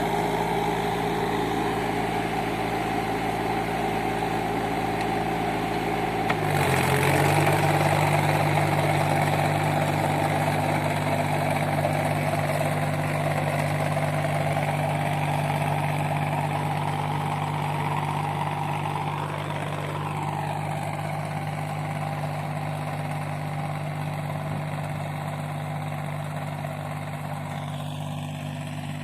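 Sonalika Sikander mini tractor's diesel engine running steadily. About six seconds in, its speed steps up a little and it gets louder, then it holds steady and grows slightly quieter toward the end.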